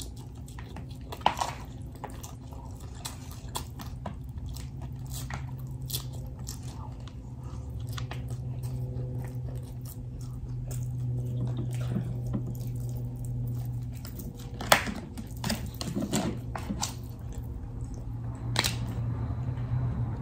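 Close-miked chewing and crunching of a hard corn taco shell, with wet mouth sounds and a few sharper clicks, over a steady low hum.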